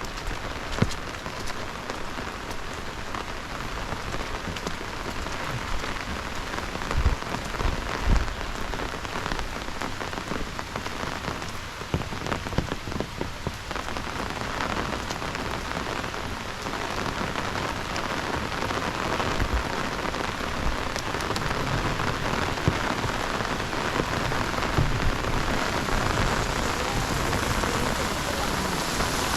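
Heavy rain falling steadily, with many small drop hits and a few low thumps about seven and eight seconds in. It grows a little louder toward the end.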